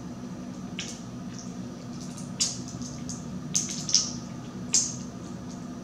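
Close-miked chewing of a crunchy chopped salad: wet mouth clicks and crisp crunches at irregular moments, over a steady low hum.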